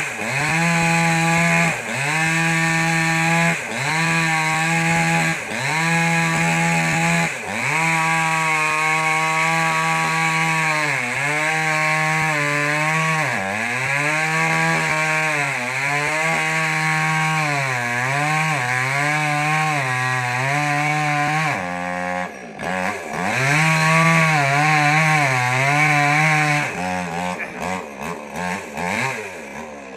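Small petrol mini chainsaw running at high revs while cutting wood. Its engine note sags briefly and recovers about every two seconds, then wavers unevenly, and near the end it breaks up into choppy, lower revs.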